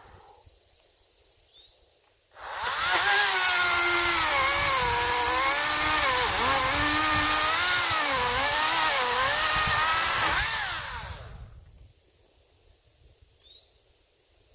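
Greenworks 40-volt battery chainsaw starting up about two seconds in and running for about nine seconds, its electric whine dipping and rising in pitch as the chain loads up cutting pine. It stops and winds down near the end.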